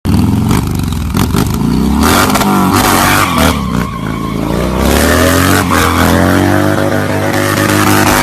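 Motorcycle engine revving, its pitch swinging up and down several times, then running at a near-steady, slowly rising pitch from about halfway through.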